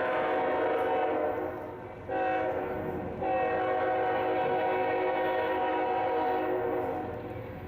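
Diesel freight locomotive's multi-chime air horn sounding a chord. A long blast fades out about a second and a half in, a short blast comes around two seconds, then a long blast ends near the close. This is the end of the long-long-short-long grade-crossing signal.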